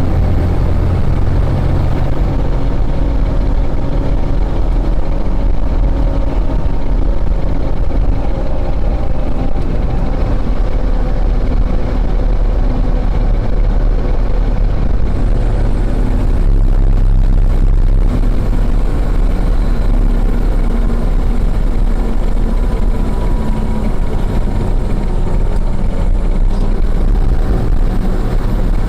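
Fire engine running under way, a steady loud engine rumble mixed with road noise, heard from inside the cab; the engine pitch shifts a few times.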